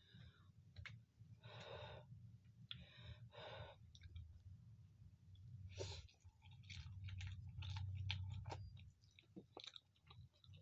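Faint close-up chewing and slurping of instant noodles, with a louder slurp about six seconds in followed by a run of light clicks.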